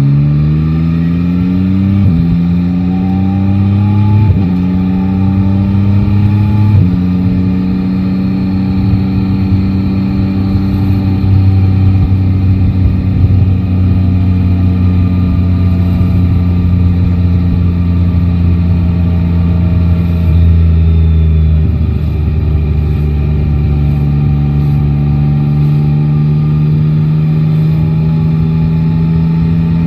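Yamaha Tracer 9 GT's 890 cc inline-three engine pulling hard through the gears at riding speed. Its pitch climbs and drops sharply three times in the first seven seconds as it shifts up, then it holds steady at cruise, with one more drop in pitch about two-thirds through.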